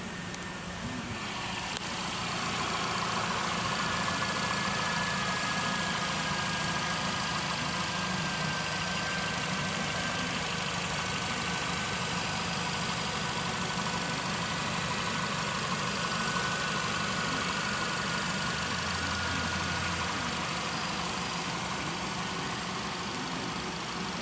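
Nissan Pulsar car engine idling steadily. A click about two seconds in, after which it runs a little louder.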